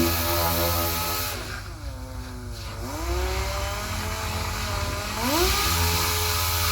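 Power sander running at speed, winding down in pitch about a second and a half in, running slower, then spinning back up to full speed near the end as the trigger is eased off and squeezed again.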